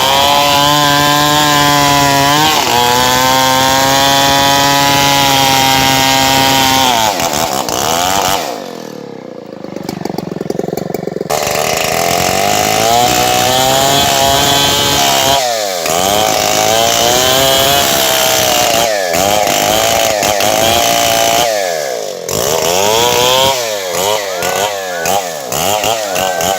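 Two-stroke chainsaw cutting into a tree, running at high revs under load. The engine note sags for a few seconds about a third of the way in, picks up again, then rises and falls over and over through the second half as the cut goes on.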